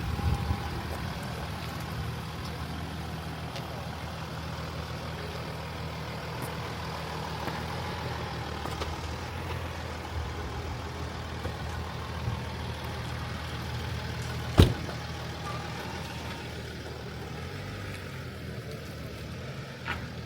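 A vehicle's engine running steadily with a low hum, and one sharp click about two-thirds of the way through.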